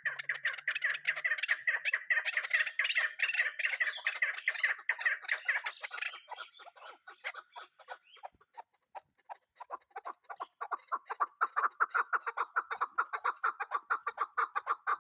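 Chukar partridge calling: a rapid run of short clucking notes that builds into a loud bout for the first six seconds, thins out, then comes back in a second, lower-pitched bout from about ten seconds in.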